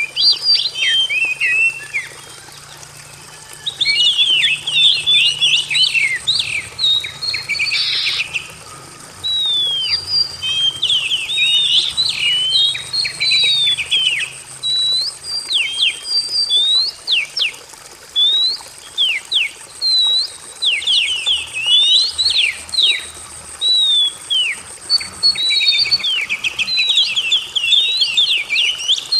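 Oriental magpie-robin (kacer) singing: bursts of rapid, varied whistled notes and quick sweeping phrases, broken by two short pauses.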